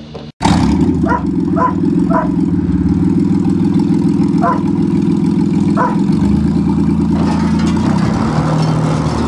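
A car engine running loudly and steadily, with a few short squeaks over it in the first several seconds.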